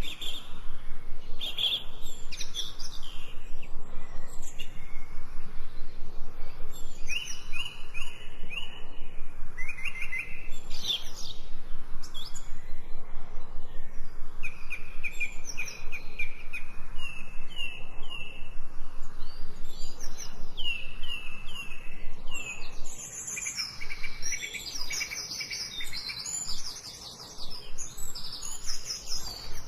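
Songbirds chirping and singing throughout, with quick runs of repeated chirps.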